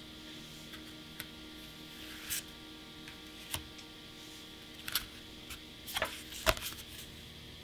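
Card sleeves and their packaging being handled by hand: scattered light clicks and taps with a brief rustle, then a quick cluster of taps, the last and loudest about six and a half seconds in.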